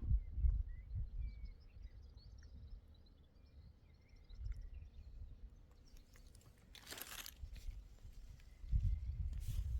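Outdoor ambience: low wind-like rumble, with faint bird chirps in the first half. Two short rustling, crunching noises come about seven seconds in and near the end.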